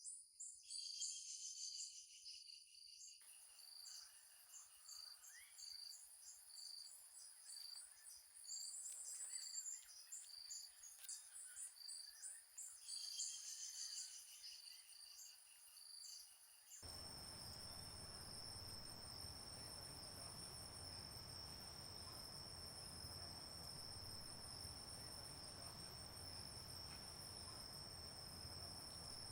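Crickets and other insects chirping in rapid rhythmic pulses, with a few bird calls mixed in. About two-thirds of the way through, the sound changes abruptly to a steady, unbroken insect trill over an even hiss.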